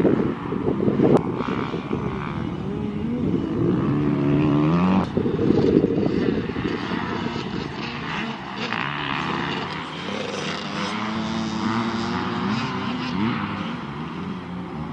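Dirt bike engines revving as bikes ride the track, the pitch repeatedly climbing and dropping through the gears.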